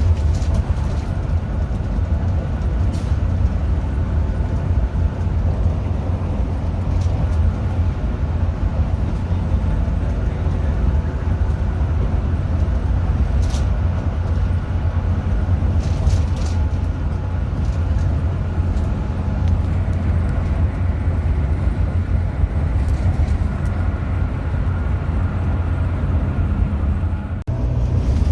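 Steady low rumble of a Hino RM 280 diesel coach under way, engine and road noise running evenly with a few faint light rattles. The rumble briefly cuts out just before the end.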